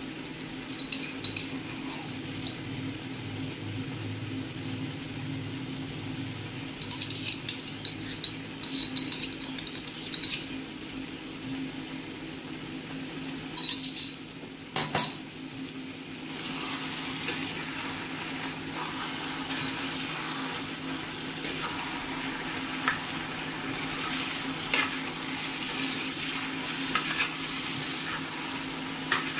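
Mutton and onions sizzling in a cast-iron pan, with a steady low hum underneath. A few light clinks and taps come around the middle. From a little past halfway the frying grows louder as a wooden spatula stirs and scrapes the meat around the pan.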